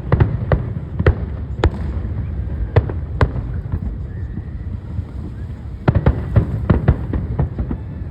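Fireworks going off: a run of sharp bangs and pops at uneven intervals, with a dense cluster about six seconds in, over a steady low rumble.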